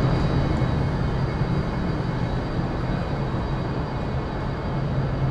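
A train standing at a station platform, humming steadily with a low drone and a few faint high whining tones.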